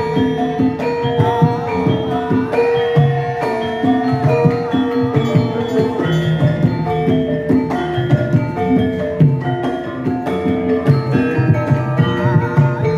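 Javanese gamelan ensemble playing: bronze metallophones struck in a steady flow of ringing notes over low drum strokes.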